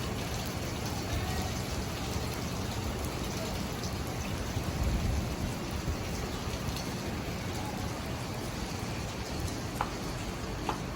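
Rain falling steadily, an even hiss, with a brief low rumble about halfway through.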